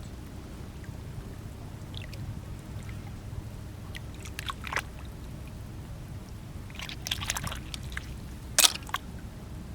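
Shore foraging on wet sand: scattered wet squishing and clicking, like shells and wet sand being handled, over a steady low rumble of wind or surf, with a sharp click about three-quarters of the way through.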